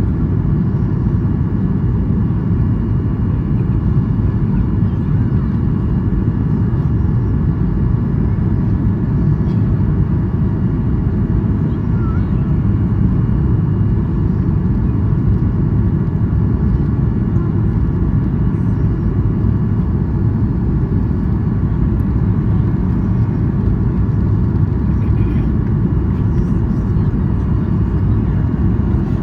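Boeing 737-800 cabin noise: a steady, loud rumble of the airliner's CFM56-7B engines and airflow, heard inside the cabin, with faint steady whines above it.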